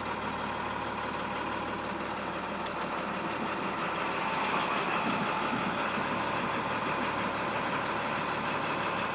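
Diesel engine of a 2012 International IC CE school bus idling steadily, with a single click about three seconds in.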